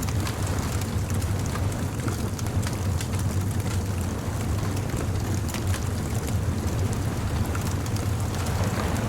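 Bonfire crackling, with frequent small sharp pops, over a steady low rumble of surf.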